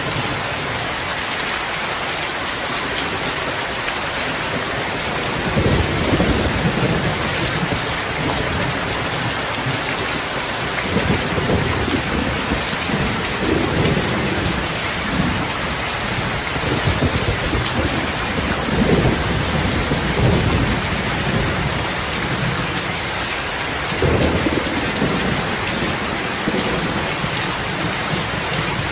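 Heavy rain falling steadily, with low rolls of thunder rumbling in repeatedly from about five seconds in.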